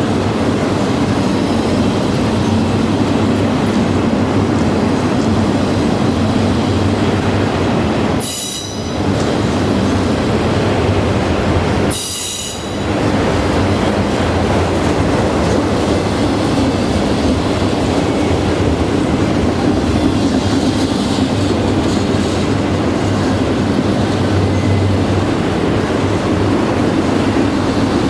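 A freight train's cars rolling past on the rails, a loud steady rumble of wheels on track that dips briefly twice, about eight and twelve seconds in.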